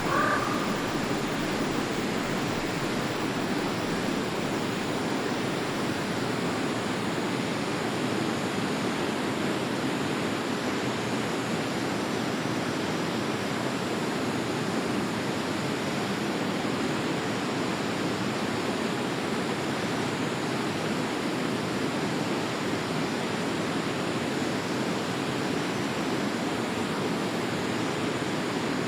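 Forest river flowing, a steady even rush of water. A brief bird call right at the start.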